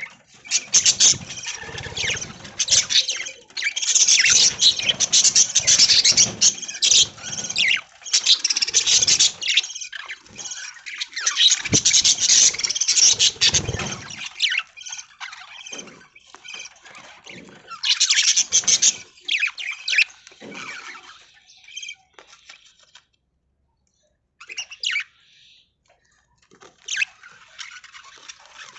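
Budgerigars chattering and chirping in quick, high-pitched bursts. The chatter is dense over the first half, then thins out with a couple of short quiet gaps after about twenty seconds.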